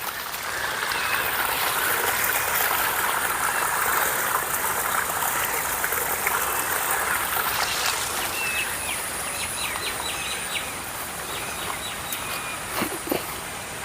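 Outdoor natural ambience: a steady rushing noise, fuller in the first few seconds, with a series of short bird chirps about eight to eleven seconds in and two soft knocks near the end.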